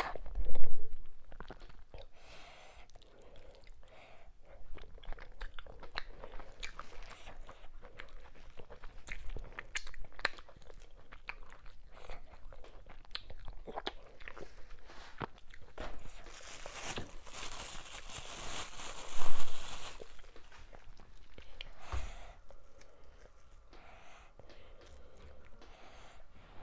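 Close-miked chewing and wet mouth sounds of a person eating fufu with ogbono soup by hand: frequent sharp lip smacks and clicks, with two louder moments, one right at the start and one about two-thirds through, and a longer hissing, sucking stretch just before the second.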